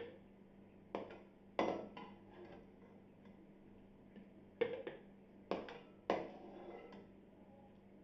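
Metal spoon knocking and scraping against a kadhai and a grinder jug as cooked masala is scooped across: about seven separate clinks, in two groups a few seconds apart, over a faint steady hum.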